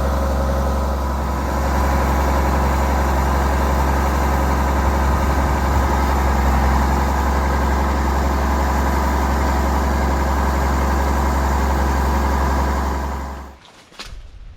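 Case IH 2388 combine running steadily under harvest, a deep engine hum with the machine's threshing drone over it. Near the end the sound drops away quickly, followed by a single click.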